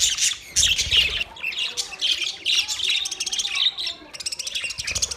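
Budgerigars chirping and chattering in quick, high-pitched bursts, with a fast run of clicking notes past the middle.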